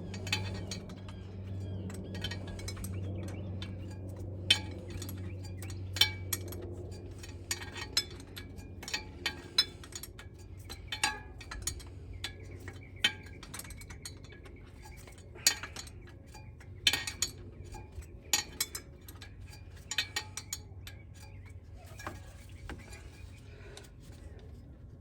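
Metal hand tools clinking and tapping against metal in irregular single knocks, a few seconds apart. A low steady hum runs underneath and fades out about halfway through.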